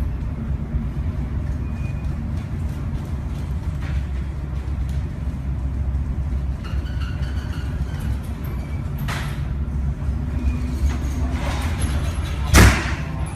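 Storm noise aboard a ship: a steady heavy low rumble of wind and sea, with one loud sudden crash about a second before the end.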